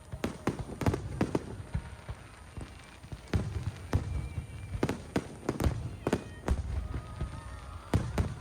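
Fireworks going off in a rapid, irregular string of bangs and cracks over a low rumble.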